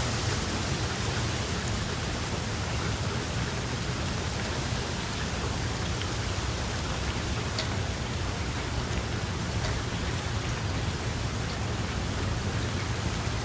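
Steady rain falling, with a few single drops ticking out now and then and a low, steady rumble underneath.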